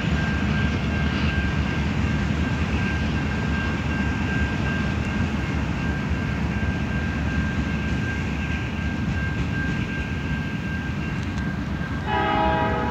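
Freight train cars rolling past, a steady low rumble of wheels on rail, with a grade-crossing bell ringing steadily over it. Near the end a short pitched horn sounds.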